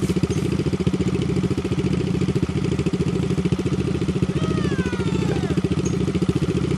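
Small motorcycle engine idling steadily, a fast even putter.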